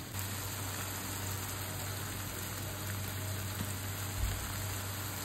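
Chopped tomatoes frying with onions and chillies in hot oil in a pan: a steady sizzle as the tomato is sautéed down into the masala.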